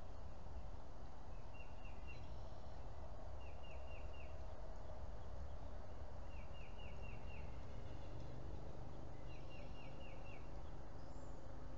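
A bird calling: a quick phrase of three to five short chirps, repeated four times at intervals of two to three seconds, over a steady low background rumble.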